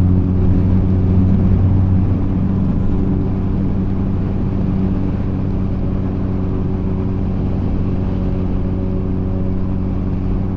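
Honda Rebel 250 motorcycle engine running at a steady, even pitch while riding along.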